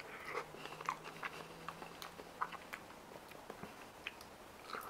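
Chewing a mouthful of ripe Monstera deliciosa fruit: faint, quick mouth clicks and smacks, scattered irregularly.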